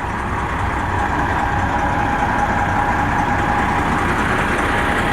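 Diesel truck engine idling steadily, a low even rumble.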